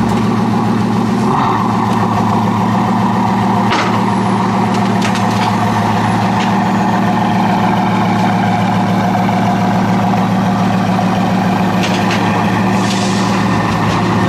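A vehicle engine running steadily at a constant pitch, with a few light clicks.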